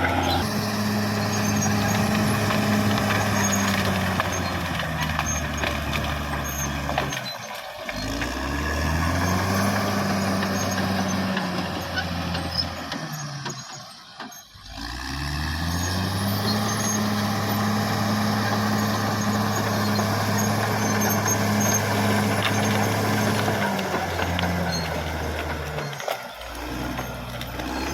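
Caterpillar D6R XL bulldozer's diesel engine running hard, its pitch sinking and climbing back about three times, most deeply about halfway through.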